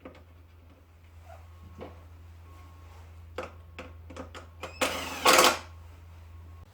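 Clicks and knocks of parts being handled and fitted back onto a portable generator, with one louder scraping noise about five seconds in.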